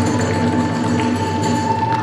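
Hiroshima kagura hayashi music: a bamboo transverse flute holds one long note over the ensemble's drum and hand cymbals.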